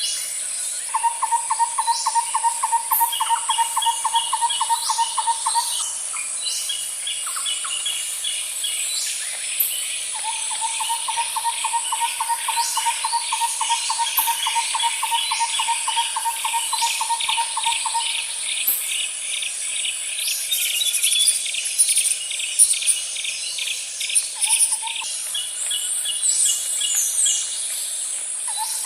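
Forest ambience: several birds calling and trilling over a steady high-pitched insect drone. A lower, fast, evenly pulsed trill repeats in two long runs, of about five and eight seconds.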